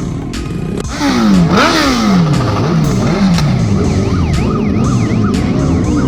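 Music with a steady beat, overtaken about a second in by an electronic siren sweeping rapidly up and down in pitch, over and over.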